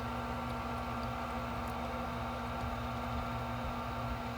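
Gas furnace's newly replaced Fasco induced draft motor running with a steady hum and whine, purging the flue while the hot surface igniter heats up before the burners light.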